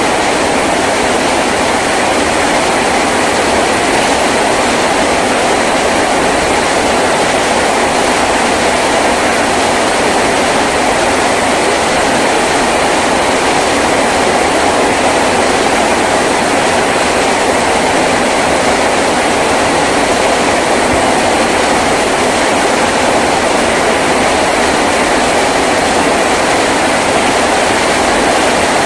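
Heavy rain drumming steadily on a tin roof, a loud, even patter with no let-up.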